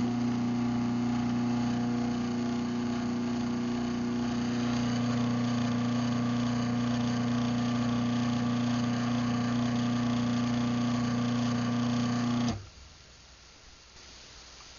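Craftsman 1/2 hp garage door opener, model 139.53930DM, running its motor through an opening cycle: a steady hum that stops abruptly about twelve and a half seconds in.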